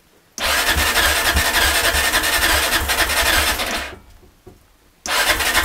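A small engine being turned over by its starter without catching: a harsh, rapidly pulsing churn lasting about three seconds, then a short second try near the end.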